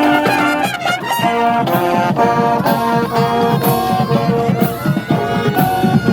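Marching band playing, brass instruments carrying the melody in held notes over drum and cymbal strokes.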